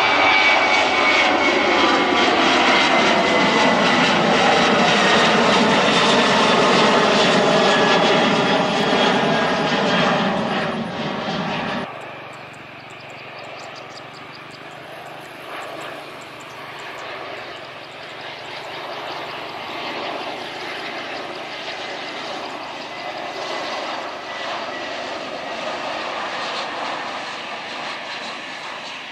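Jet airliner passing close by, its loud engine whine falling slowly in pitch. About twelve seconds in the sound cuts off abruptly to a quieter, more distant aircraft engine noise.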